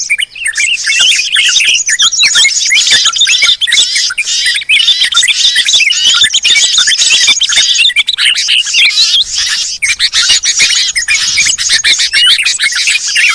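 A dense chorus of many small songbirds chirping and trilling over one another without a break: a noisy bird-luring (pikat) mix of small-bird calls.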